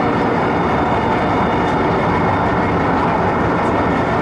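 Steady running noise of an MTR MLR electric multiple unit heard from inside the passenger car while the train is under way, with faint steady high tones over the rumble.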